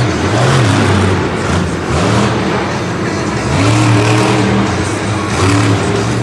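Monster truck's supercharged V8 engine at full throttle, revving hard. It eases off about two seconds in, then climbs in pitch again several times.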